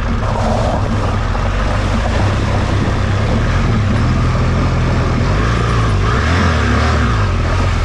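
A vehicle engine running steadily while driving on a rough off-road track, its low hum shifting in pitch a little midway.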